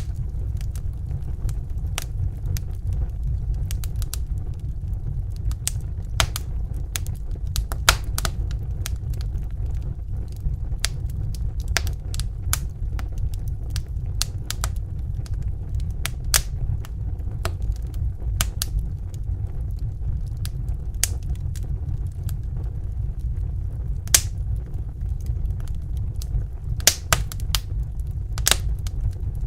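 Wood fire in a fireplace crackling, with irregular sharp pops over a steady low rumble; a few pops are louder, one about eight seconds in and several near the end.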